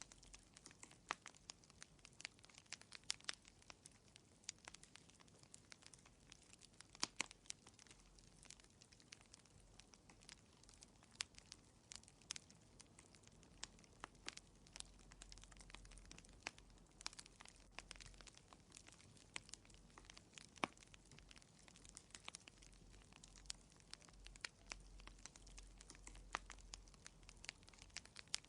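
Wood fire crackling in a fireplace, quiet, with irregular sharp pops and snaps over a faint hiss.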